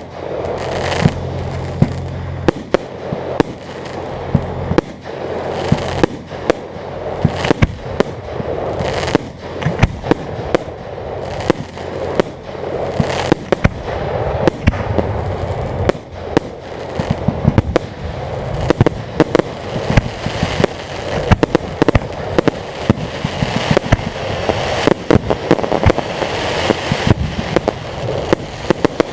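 A fireworks display going off continuously, with rapid overlapping bangs and pops over a steady crackle of bursting shells.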